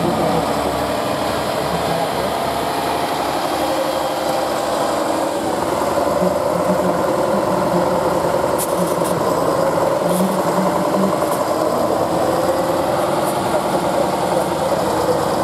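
Competition trial truck's engine running under load, its revs shifting up and down as it works through an off-road section.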